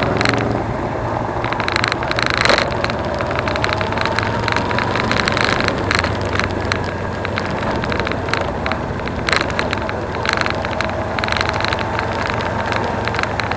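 Suzuki V-Strom 250 motorcycle running on the road, a steady engine and road-and-wind noise with many sharp crackles, the engine note rising slightly a couple of seconds in.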